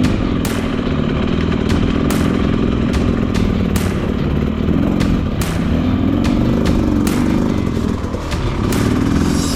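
Dirt bike engine running on a trail, its pitch rising and falling as the throttle is worked, with frequent sharp knocks and clatter from the bike over rocks.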